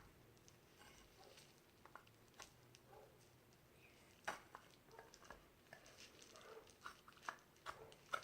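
Faint scattered clicks and small taps of ceramic pottery pieces being handled and fitted back together, with several coming close together near the end.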